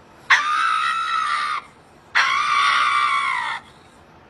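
Two long, high-pitched screams, each held at a steady pitch for about a second and a half, with a short pause between them.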